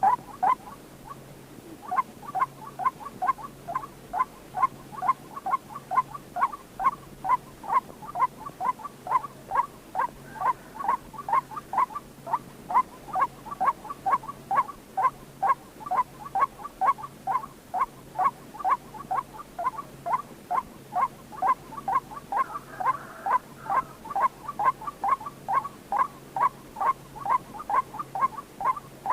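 White-breasted waterhen calling: a long steady series of short, identical notes, about two a second, starting about two seconds in.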